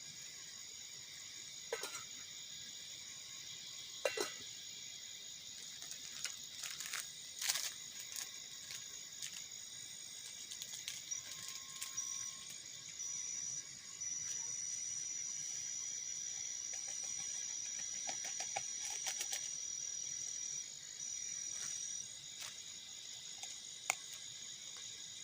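Crickets chirring in a steady high chorus. One insect trills a steady high note in several bouts through the middle, the longest about six seconds. A few sharp clicks or knocks are scattered through.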